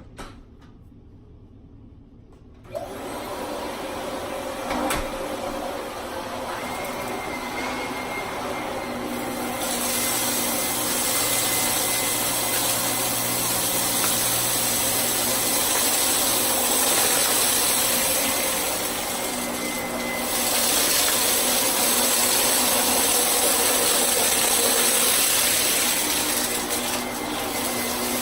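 Vacuum cleaner switched on about three seconds in, then running steadily. It gets louder around ten seconds in and dips briefly near twenty seconds.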